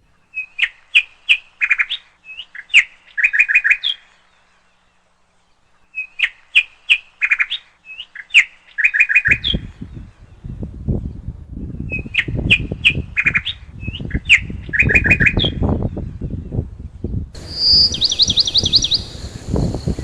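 A songbird singing, the same short phrase of quick chirps and a buzzy run given three times a few seconds apart. From about nine seconds in, a low rumbling noise runs underneath, and near the end a second bird joins with a fast, high trill.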